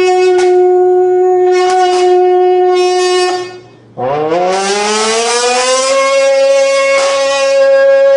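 A voice hummed into a pressed beer can, with the can's metal buzzing in resonance as it is tuned. A held buzzing tone stops about three and a half seconds in, then a second tone slides up in pitch and holds steady.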